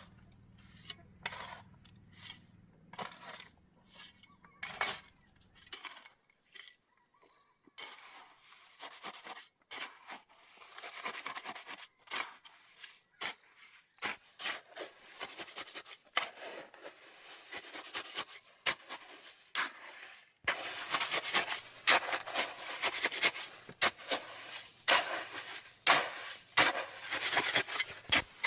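Hand work on a building site: a run of sharp knocks and clinks, irregular at first and coming thicker and louder in the last third.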